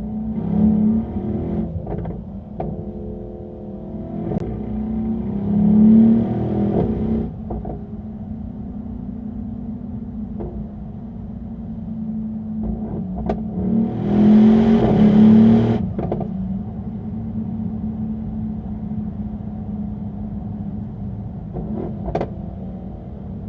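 Mercedes-AMG E63 S's 4.0-litre twin-turbo V8 pulling hard three times, its pitch rising and breaking off at each gear change, with steadier running at speed in between. A few sharp clicks come in the quieter stretches.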